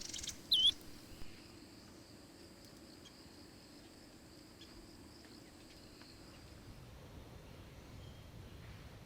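Forest ambience: a few sharp bird chirps in the first second, the loudest one about half a second in, then a steady high insect trill that fades out about seven seconds in.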